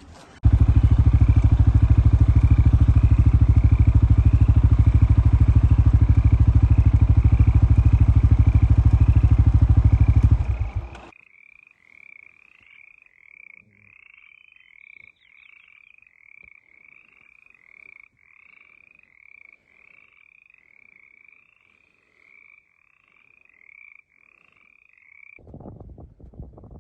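A loud, steady low rumble with a fast pulse cuts in suddenly and stops about eleven seconds in. After it, a short rising chirp repeats about twice a second, then stops shortly before the end.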